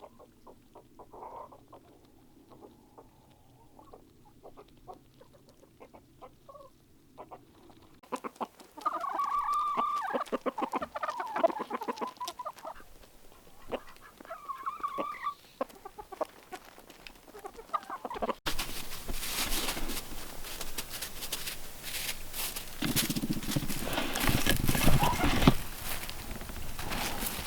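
Chickens clucking and calling, with the loudest run of calls in the middle. Near the end a steady rushing noise takes over.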